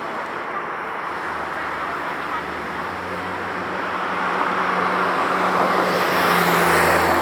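Road traffic noise, with a vehicle passing close and growing louder from about four seconds in, loudest near the end, over a low steady hum.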